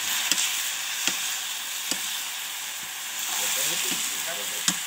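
Sliced wild mushrooms sizzling in hot oil in a wok, steadily, while a ladle stirs them and knocks against the pan a few times.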